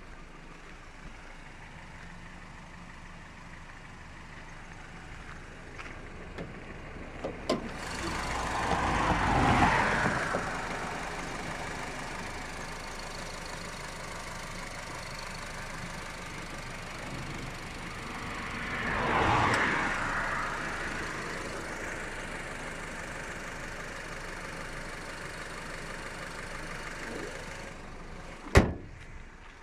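Honda Civic hatchback's petrol engine idling steadily with the bonnet up. The sound swells twice for a couple of seconds, and there is one sharp thump near the end.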